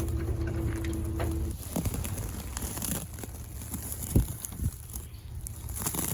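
An engine running steadily stops about a second and a half in. Scattered knocks and rustling follow, with one sharp thump near the middle.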